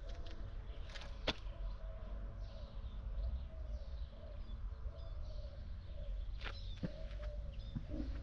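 Faint bird chirps over a low steady rumble, with a few sharp clicks, the loudest about a second in.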